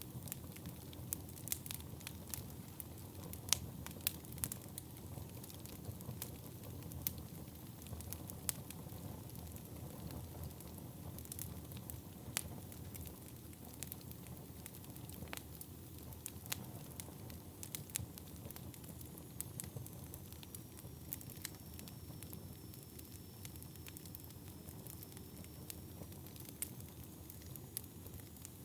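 Wood fire burning: a steady low rush dotted with frequent sharp, irregular crackles and pops. A faint high whistle runs through the second half.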